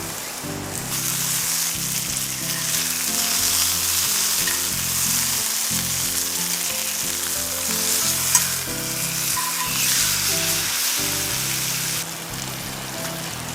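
Chicken sizzling as it fries in a skillet. The sizzle starts about a second in and cuts off sharply near the end, with one sharp click partway through. Light background music plays underneath.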